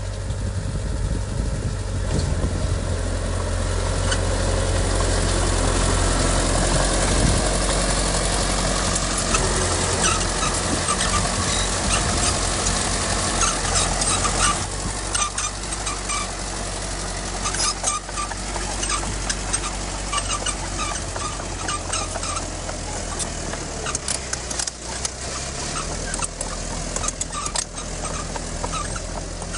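Diesel engine of heavy earthmoving machinery running steadily. It grows louder over the first several seconds, and from about ten seconds in, frequent sharp clanks and rattles come through it.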